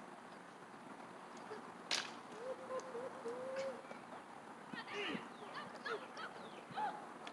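Birds calling: a wavering held call, then a run of short chirping calls that slide in pitch. A single sharp click about two seconds in.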